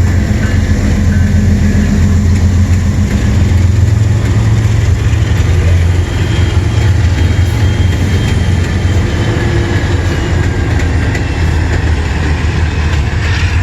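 CN freight train running past with a loud, steady, low rumble that dips slightly about six seconds in.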